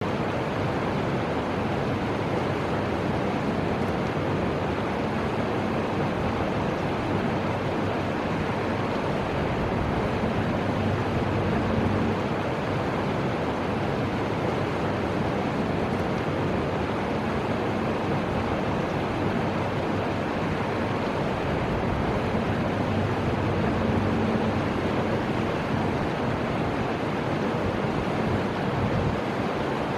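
Fuji River water rushing steadily, an even noise without change.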